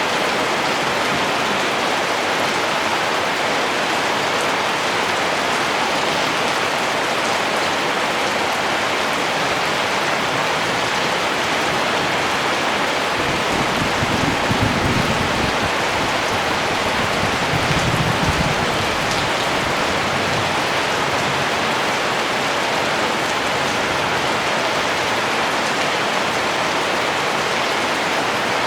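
Steady rain falling, an even hiss of drops. About halfway through, a low rumble swells up twice, each time for a couple of seconds.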